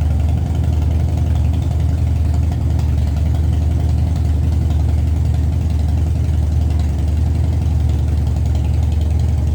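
Harley-Davidson V-twin motorcycle engine idling steadily after sitting unused through the winter.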